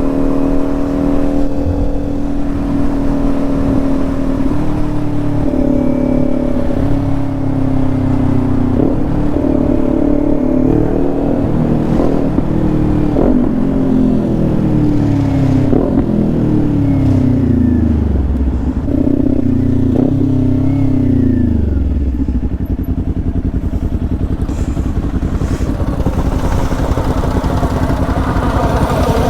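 Motorcycle engine running while riding. Through the middle its pitch rises and drops again and again, with short clicks, then sweeps down as the bike slows. It settles to a steady lower note for the last several seconds.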